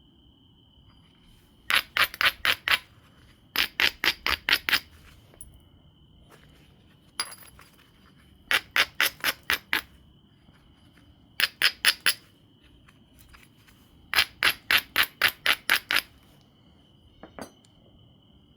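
Knapping tool tapping on an obsidian biface: bursts of five to nine quick sharp clicky taps, about five a second, separated by short pauses, with a couple of lone taps between groups.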